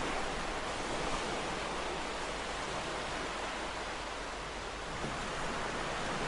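Ocean waves washing onto a shore, a steady hiss of surf that swells slightly and eases off again over the few seconds.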